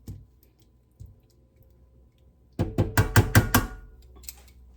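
Cookware clattering on the stovetop: a quick run of about six sharp metallic clacks a little past halfway, with a faint ringing under them.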